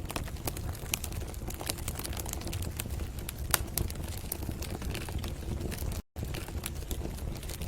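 Wood fire crackling in a fireplace: irregular sharp pops and snaps over a low steady rumble. The sound cuts out for an instant about six seconds in.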